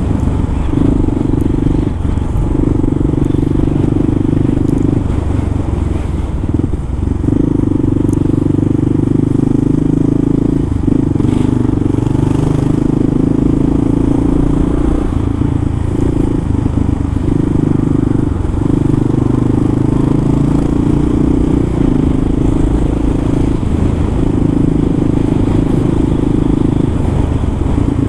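Kawasaki KLR650's single-cylinder four-stroke engine running under way, its note dipping briefly every few seconds as the throttle is rolled off and back on, heard through a helmet-mounted microphone.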